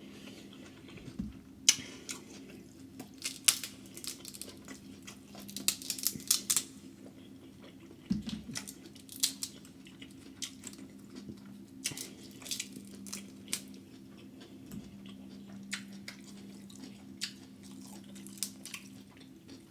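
Close-miked eating of seafood: wet chewing and lip smacking, with many short sharp clicks and smacks, thickest in the first third. A steady low hum runs underneath.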